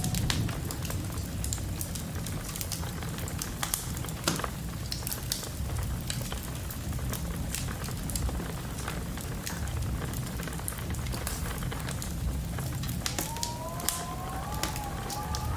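Wood fire crackling and popping over a steady low rumble. From about two seconds before the end a wavering whistling tone rises and dips.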